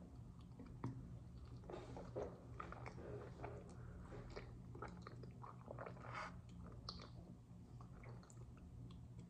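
Faint, close-up chewing of a waffle with berries: many small wet mouth smacks and clicks, scattered irregularly, over a faint steady low hum.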